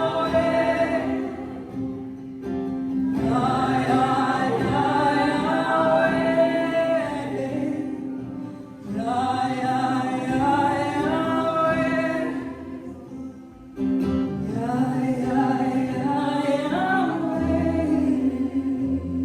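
Worship music: voices singing four long phrases, parted by short pauses, over steady held chords from an accompanying instrument such as guitar.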